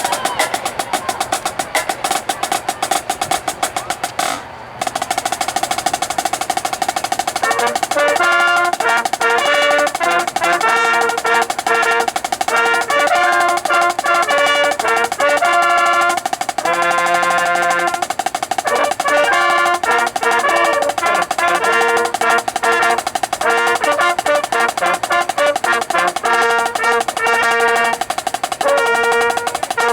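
Marching band music: a rapid snare drum roll for the first few seconds, then the band plays a tune with pitched notes over steady drumming.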